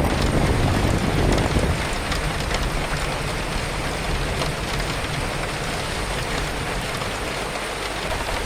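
Steady rain pattering on surfaces, with a deep low rumble of wind that dies down about two seconds in.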